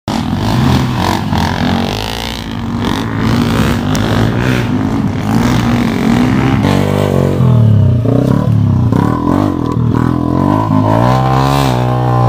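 Dirt bike engine revving up and down as it rides, the pitch rising sharply near the end.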